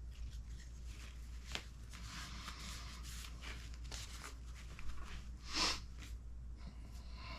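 Quiet rustling and light clicking of small parts and packaging being handled, over a low steady hum, with one short louder rustle about five and a half seconds in.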